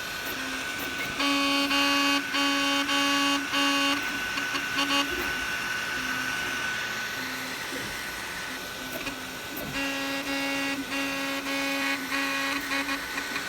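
Anycubic Kobra 3 3D printer making a racket while printing: a loud, horn-like honk that sounds like a car horn going off, coming in runs of short blasts about a second in and again around ten seconds in, with only faint short honks between. A steady high whine runs underneath. The noise started after a print failure, and the owner can find no cause: everything is tight and nothing is clogged.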